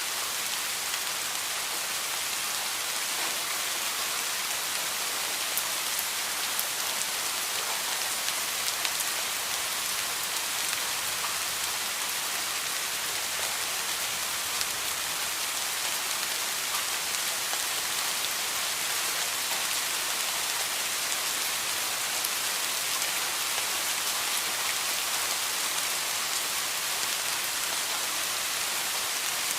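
Heavy rain falling steadily, a dense even hiss of many drops striking a surface, with no thunder.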